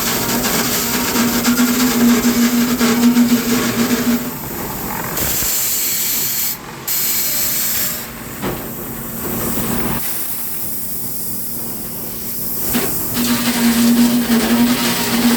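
Sawmill machinery running: a steady hum over a loud, even hiss. At about four seconds the hum stops and the noise softens, and both come back near the end.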